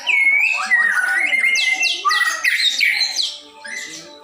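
A songbird singing a fast, continuous string of varied whistled notes, many sweeping steeply down in pitch, with some rising glides; quieter in the last second.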